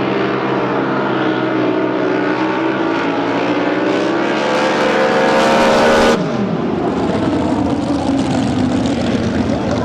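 Drag boat engine running with its pitch climbing over a few seconds, then cut off abruptly about six seconds in, leaving a rougher, noisier engine sound.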